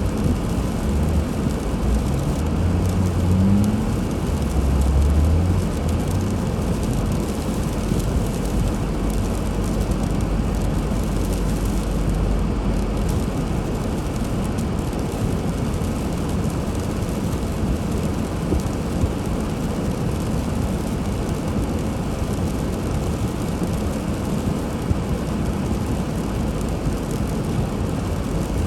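Steady rumble of a car driving on a snowy road, engine and tyre noise together, with a stronger low drone in the first six seconds.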